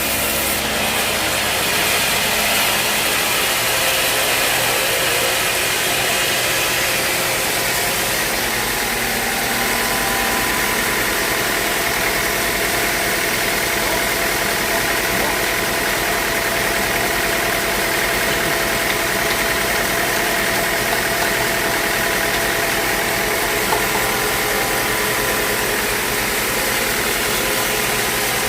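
A sawmill running steadily as it saws a teak log: an unbroken machine noise with several held tones, even in level throughout.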